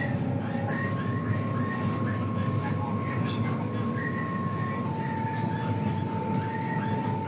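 Interior of an EG2Tv Ivolga 4.0 electric train under way: steady running rumble with a whine from the traction drive that drops in pitch about five seconds in, over repeated short creaks from the passenger cabin's fittings.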